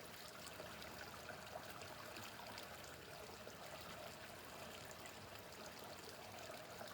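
Small mountain brook babbling, a faint, steady rush and trickle of running water.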